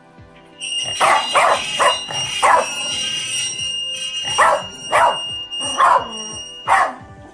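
A corgi barking: about eight sharp barks at uneven intervals over several seconds.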